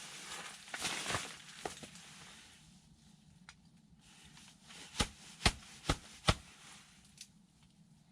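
Soft rustling handling noise, then four short, sharp knocks about half a second apart, as of hard objects being knocked or set down.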